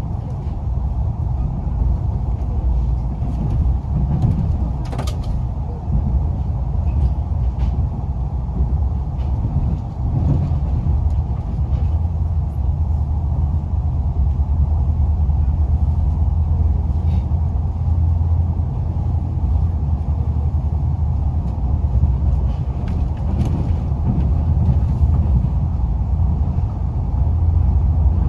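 KORAIL ITX-Saemaeul 210000-series electric train: a steady low rumble with occasional faint creaks and clicks, one sharper click about five seconds in, growing a little louder in the second half.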